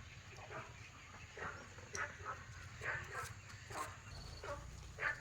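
A string of short animal calls, about two a second.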